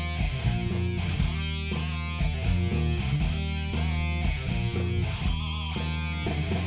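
Live rock band playing a song's instrumental intro: electric guitars over bass guitar and a drum kit keeping a steady beat on the cymbals.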